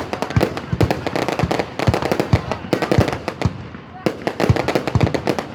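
Fireworks going off in a rapid string of sharp cracks, many a second, thinning out briefly about three seconds in and then picking up again.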